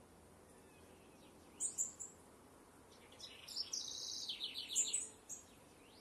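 A wild bird singing: two quick high chirps about one and a half seconds in, then a longer high song a second later that ends in a rapid run of repeated notes.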